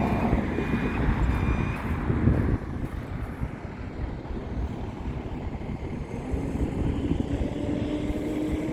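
Steady engine noise from vehicles or aircraft, with wind rumbling on the microphone; a low steady hum comes in about six seconds in.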